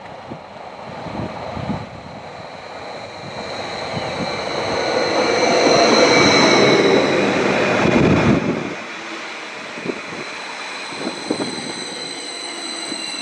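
Greater Anglia Class 755 Stadler FLIRT train approaching and passing at speed: rushing wheel and air noise builds to a peak in the middle, then drops away sharply as the train goes by. A high steady whine lingers after, with a falling tone near the end as the train recedes.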